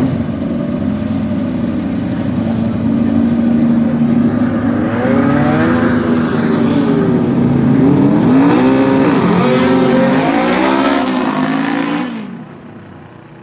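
Racing lawn mower engines running hard: a steady high drone, then the pitch rising and falling in several sweeps as they rev. The sound drops away suddenly about twelve seconds in.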